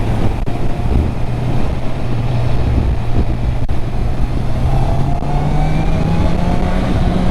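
Stock Honda CB650R inline-four engine running steadily while riding, over wind rush; the engine pitch rises a little in the second half.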